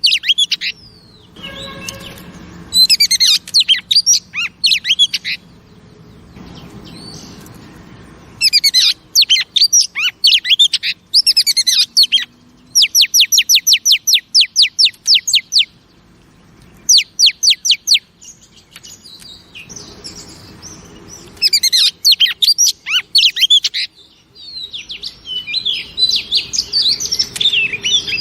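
Female oriental magpie-robin singing in loud bursts of varied whistled and chattering phrases separated by short pauses. About halfway through comes a quick run of about a dozen repeated downslurred notes. This is song used to excite and rouse male magpie-robins.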